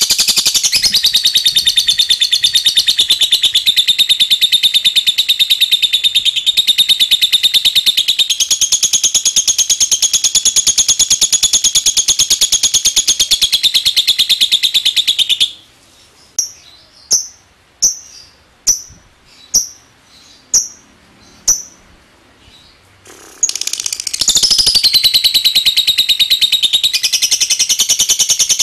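Lovebird's long 'ngekek' chatter: a continuous, rapid, high-pitched rattling trill. About halfway through it breaks off for roughly seven short separate chirps, about one a second, then the chatter starts up again.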